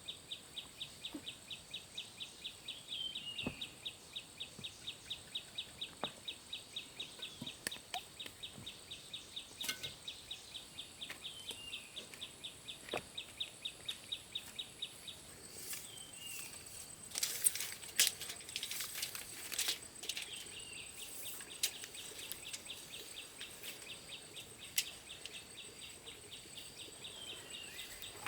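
Rural outdoor ambience of insects and birds: a rapid, evenly repeated high chirping that pauses for a few seconds in the middle, over a steady thin high whine, with occasional short rising bird calls. A few sharp knocks come in a cluster past the middle.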